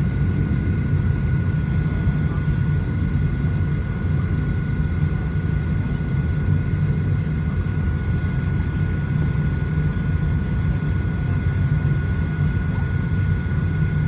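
Steady airliner cabin noise inside a Boeing 737-900ER: an even low rumble with a thin, steady high-pitched whine over it.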